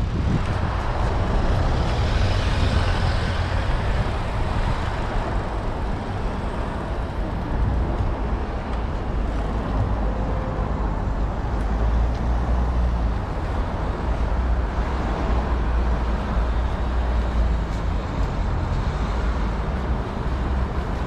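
Steady wind rush over a bicycle-mounted GoPro's microphone while riding, with a heavy low rumble.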